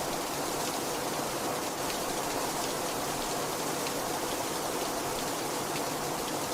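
Heavy rain falling steadily, with a few faint drop impacts standing out from the constant rush.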